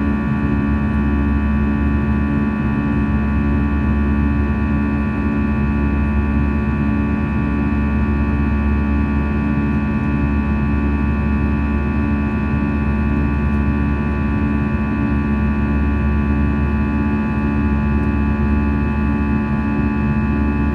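Airbus A320 cabin noise in flight: the engines and airflow make a steady drone with several fixed whining tones over a low rumble, unchanging throughout.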